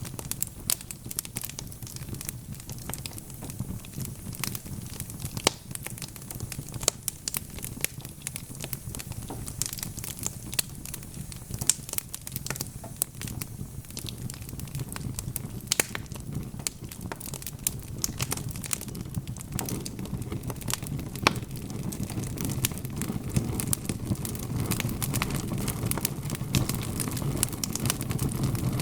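Wood fire crackling: many sharp, irregular pops and snaps over a low steady rumble of the flames, the rumble growing a little louder in the last third.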